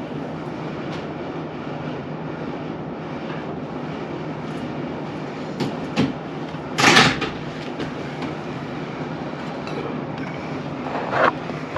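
Steady rumble of a vehicle in motion, with a few short knocks and a louder clatter about seven seconds in.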